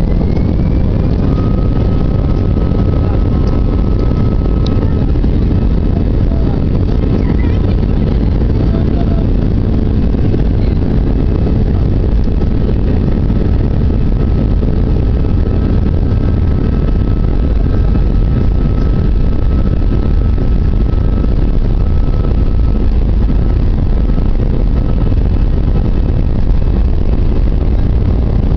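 Airbus A320-200 jet engines at takeoff power, heard from inside the passenger cabin: a steady, loud rumble with a faint steady whine above it.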